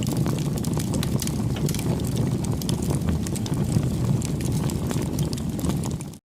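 Wood fire burning with a steady low rush and many sharp crackles and pops; the sound cuts off abruptly at the very end.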